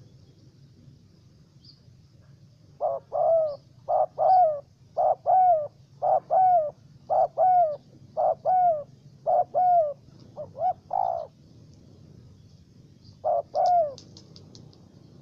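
Spotted dove cooing: a run of about eight paired coos, each a short note followed by a longer falling one, then a pause and one more pair near the end. Faint high ticks sound in the background.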